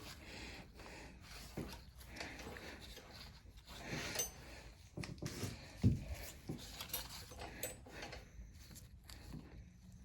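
Hands fitting an in-line fuel shut-off valve into a push mower's fuel line: scattered small clicks, rustles and taps of hose and parts being handled, with one louder knock about six seconds in.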